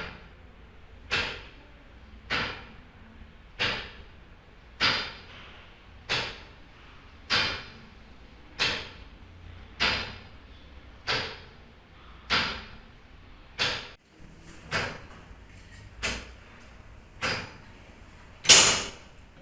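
Mechanical clock ticking slowly and evenly, a sharp knock about every 1.2 seconds, with one louder clack near the end.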